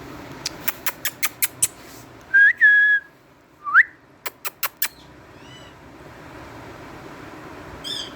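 Indian ringneck parrot whistling: one loud held whistle, then a short rising whistle, between two quick runs of sharp clicks, with faint chirps later.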